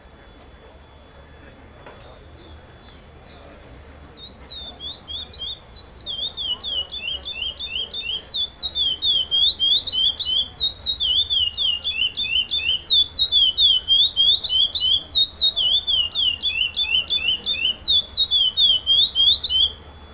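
Curió (chestnut-bellied seed finch) singing a long run of quick, sweeping whistled notes in the repetition 'Mistério' song style. After a few faint notes it grows louder over the first few seconds, then the song stops abruptly near the end.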